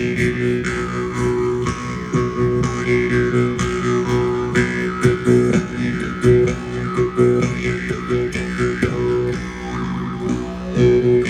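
Didgeridoo and jaw harp (vargan) played together: a steady low drone with overtones sweeping up and down above it, pulsed in a rhythm by breath and mouth.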